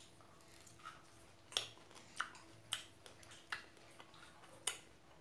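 Close-up eating sounds of someone chewing fresh strawberries: sharp, wet mouth clicks and smacks, six or seven of them at irregular intervals, over a faint steady hum.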